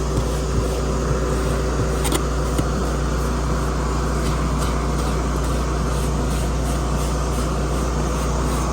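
A vacuum cleaner running steadily while dog hair is worked out of a truck's upholstery, with a few light scrapes and clicks.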